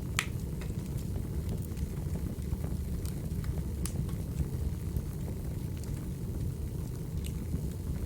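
Burning firewood crackling: a steady low rumble of flames with sharp pops of the wood now and then, the loudest just after the start.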